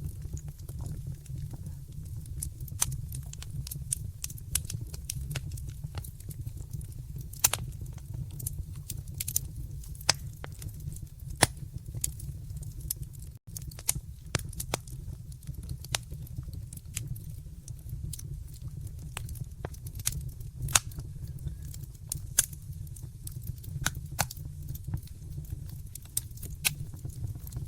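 Wood fire burning in a fireplace: irregular sharp crackles and pops over a steady low rumble of the flames, with a momentary dropout about halfway.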